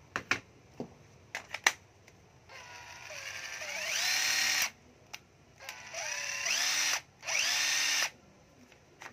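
A few clicks as a cordless drill is handled, then three trigger runs of its motor. Each run has a rising whine that climbs to full speed and holds. The first run spins up slowly over about two seconds; the other two are shorter.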